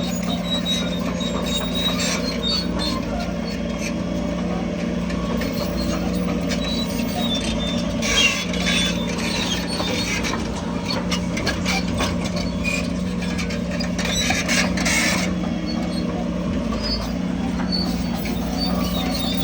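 Heavy diesel construction machinery running steadily, with scattered high-pitched metallic squeaks and rattles over the engine hum, busiest about eight seconds in and again near fifteen seconds.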